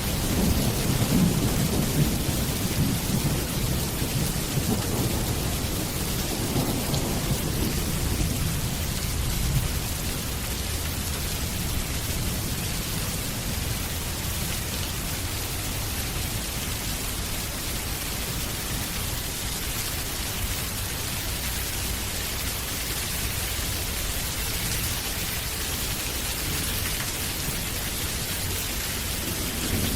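Steady rain with a low roll of thunder in the first several seconds that fades out, leaving the rain alone.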